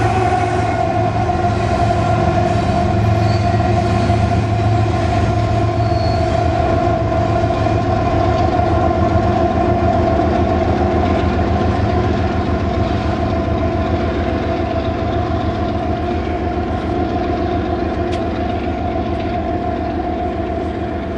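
Union Pacific intermodal freight train's rear locomotive passing and moving away: a steady whine over a low rumble that dips slightly in pitch as it goes by at the start, then slowly fades.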